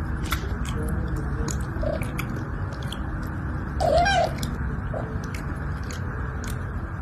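An animal chewing, with many short crunchy clicks over a steady low background noise, and a brief squeaky call about four seconds in.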